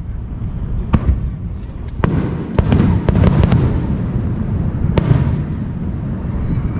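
Fireworks bursting overhead: a string of sharp bangs over a constant low rumble. A quick cluster of reports comes about three seconds in, and a loud single bang about five seconds in.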